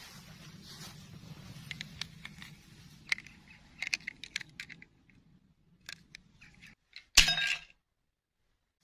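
Small hard objects clicking and clinking as they are handled, with a short, louder clatter about seven seconds in.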